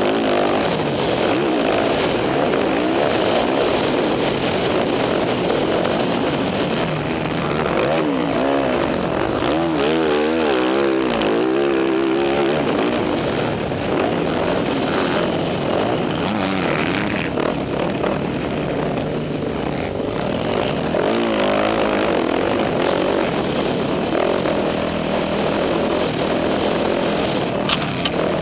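Dirt bike engine revving up and down as the bike is ridden, pitch climbing and falling with the throttle, over a steady rushing noise. One sharp click near the end.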